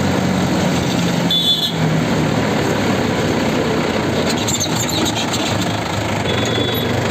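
Tractor diesel engine running steadily while driving along a road, with a brief high-pitched squeal about a second and a half in and another short high tone near the end.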